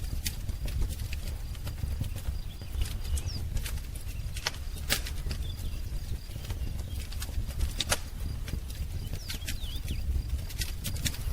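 Wood fire crackling, with irregular sharp pops and snaps over a low steady rumble, and a few faint, brief high bird chirps.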